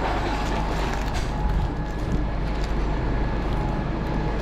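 Steady low rumble of a vehicle engine running, with a faint steady hum over it.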